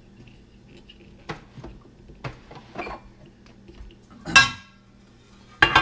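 Metal meat-grinder parts clinking and knocking as they are handled and fitted together: a few light knocks, then a louder ringing clank a little past four seconds in and another near the end.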